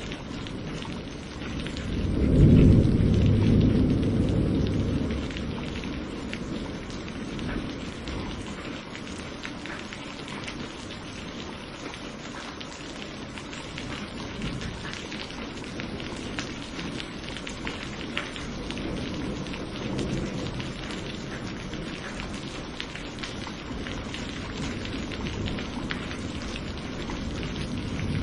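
Steady rain falling with scattered drips, and a deep thunder rumble that swells about two seconds in, is loudest for a few seconds and fades; fainter low rumbles come later.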